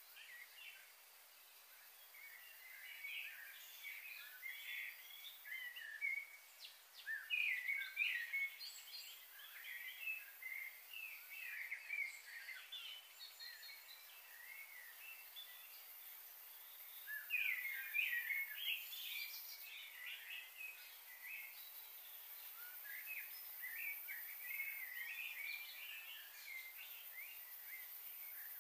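Small birds chirping and twittering busily in quick, overlapping bursts, with a busier spell in the first third and another just past the middle.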